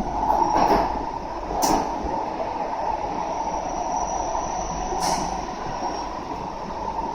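Kawasaki C151A metro train running at speed through a tunnel, heard inside the car: a steady rumble of wheels on rail with a faint high squeal. Two sharp clacks come about three and a half seconds apart.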